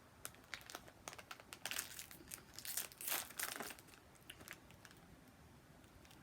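Plastic snack wrapper being crinkled and torn open, with a run of crackles that is densest and loudest in the middle and thins out towards the end.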